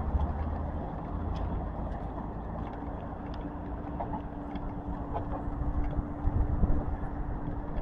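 A car driving by: a steady low rumble with a steady engine hum.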